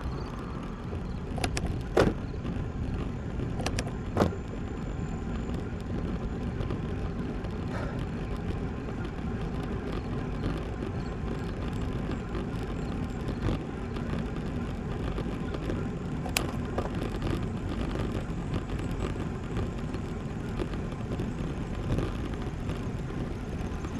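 Steady rumble of wind on the microphone and tyre noise from a road bike riding on pavement, broken by a few short sharp clicks or knocks.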